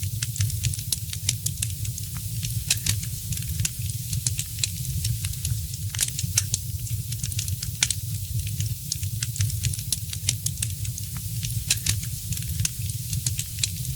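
Wood fire crackling in a fireplace: frequent irregular sharp snaps and pops over a steady low rumble and hiss of the flames.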